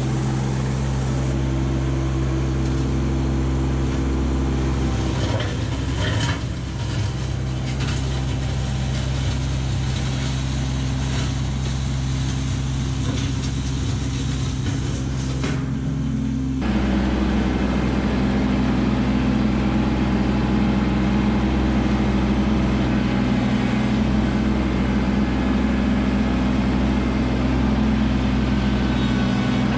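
Kubota LX2610 compact tractor's three-cylinder diesel engine running at a steady speed, with some knocks and rattles in the middle, and louder after an abrupt change about two-thirds through.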